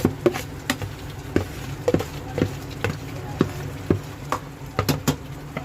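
Spoon knocking and scraping against a kadai about twice a second as marinated chicken is tipped into and stirred through frying masala, with a light sizzle and a steady low hum underneath.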